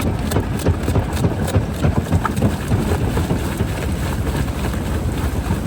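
Jaw rock crusher running and crushing stone: a steady low rumble with irregular cracks and knocks as rock breaks between the jaws.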